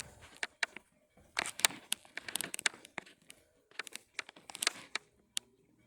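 Irregular rustling and sharp clicks, scattered and uneven, with brief quiet gaps between.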